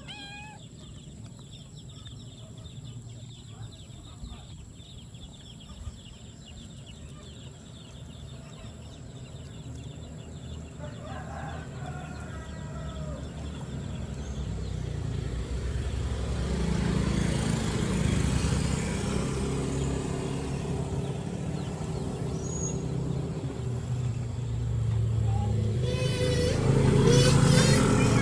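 Chickens calling, with a single short crow about eleven seconds in, then a motorcycle engine growing steadily louder as it approaches through the second half.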